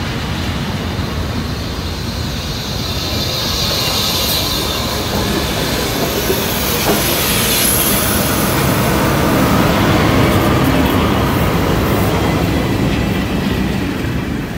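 Heritage train rolling slowly past close by: its steel wheels squeal and click over the rail joints. It grows louder as the red diesel locomotive at the rear passes, about ten seconds in, then fades as the train clears.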